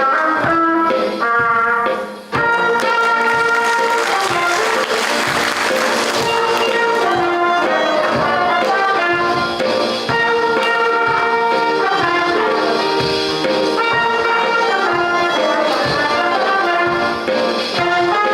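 A primary-school band playing a piece in which brass horns carry sustained chords over a steady beat of drums.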